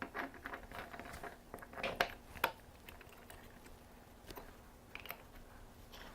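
Light clicks, knocks and rattles of a knife-sharpening clamp and its parts being handled, packed close together for the first two and a half seconds, then two single clicks.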